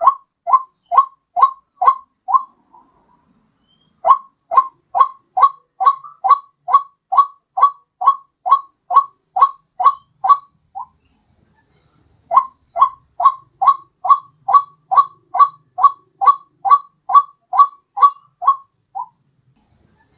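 White-breasted waterhen (ruak-ruak) call played as a bird-catching lure: a quick series of short notes, each dropping in pitch, about two a second, in runs of several seconds separated by short pauses.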